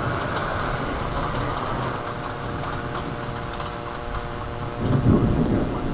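Heavy rain falling steadily, with scattered sharp ticks of drops striking a hard surface, and a low rumble swelling about five seconds in.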